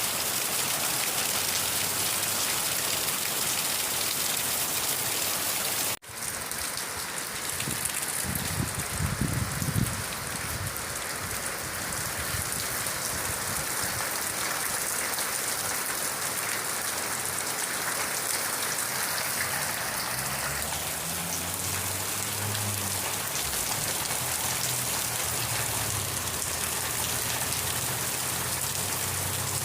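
Steady rain falling on a surface. About six seconds in, the sound cuts out for an instant and comes back, a low rumble rises briefly a few seconds later, and a low hum joins in for the second half.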